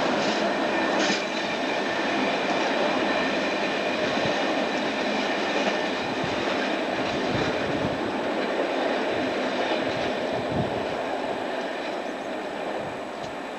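Diesel-hauled freight train of oil tank wagons passing, its wheels running steadily on the rails. The sound fades gradually toward the end as the train draws away.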